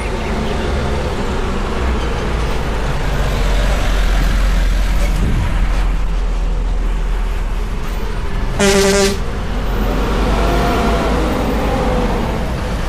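A heavy road vehicle's engine runs with a steady low rumble. About two-thirds of the way in, a vehicle horn sounds once, a short, loud blast.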